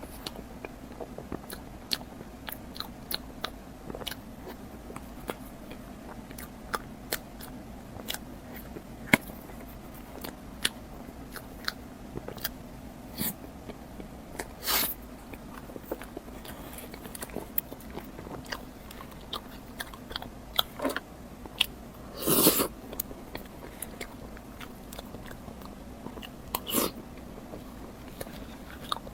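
Close-miked eating of a soft towel-roll crepe cake: a steady run of short, sharp mouth clicks and lip smacks while chewing. A few louder, longer bites come about halfway through and again about three-quarters through.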